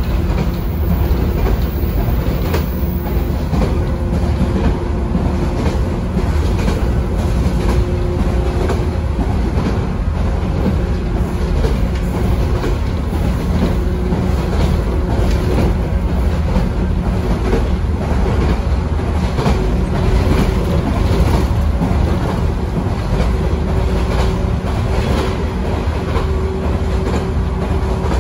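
Running noise inside a JR West 113-series motor car with MT54 traction motors at speed: a steady heavy rumble with wheels clacking over rail joints, and a faint steady hum that fades in and out.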